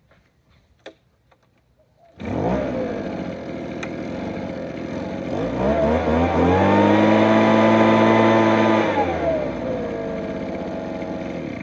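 Makita RBL 250 two-stroke leaf blower cold-started: the engine catches about two seconds in and runs at idle. It is revved up to a steady high speed for a few seconds, drops back to idle and cuts off near the end.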